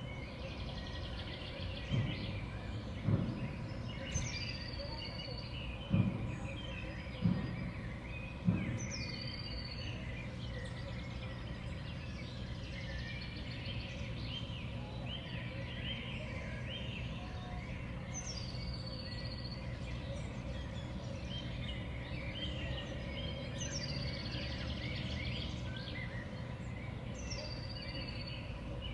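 Small songbirds at a winter seed feeder calling and chirping, with short high calls again and again. In the first nine seconds there are five dull knocks.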